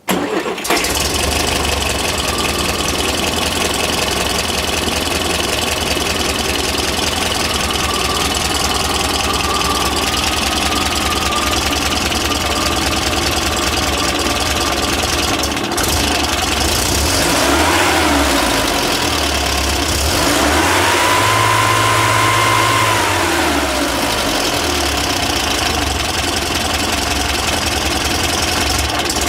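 Pinzgauer 710 M's air-cooled 2.5-litre four-cylinder petrol engine catching right away and idling steadily. It is revved briefly once past the middle, then revved again and held at higher revs for a couple of seconds before dropping back to idle.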